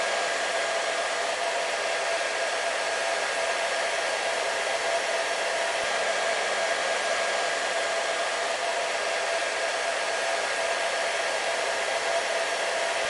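Hair dryer running continuously: a steady airflow rush with a constant motor whine, unchanging throughout.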